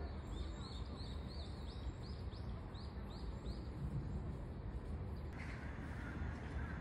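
A bird chirping, a run of short high notes about three a second over a steady low rumble; the chirps stop about two thirds of the way through and a different steady sound takes over.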